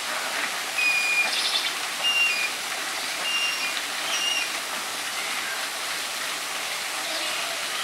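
Steady rush of running water, with a few short high-pitched chirps in the first half.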